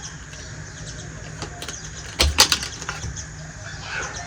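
A quick cluster of sharp clicks and taps a little over two seconds in, like small hard objects being handled or set down, over a steady background hiss.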